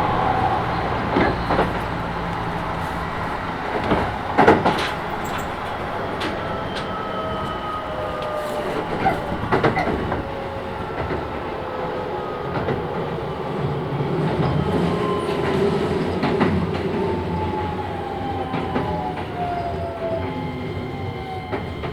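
Keisei 3000 series electric train heard from inside the car: the Toyo IGBT VVVF inverter and traction motor whine glides steadily down in pitch as the train slows. The wheels rumble under it, with a few sharp clacks over rail joints.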